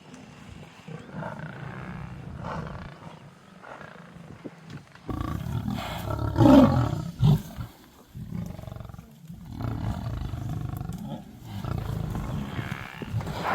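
Lions growling and snarling at a buffalo kill, in rough low bouts, with the loudest outburst about six and a half seconds in.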